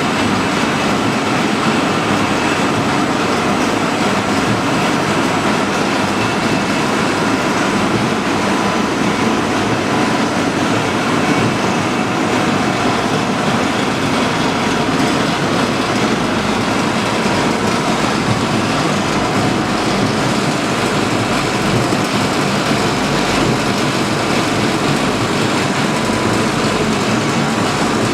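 Loud, steady industrial machinery noise on a factory floor: a constant rushing din with faint steady whines and no breaks.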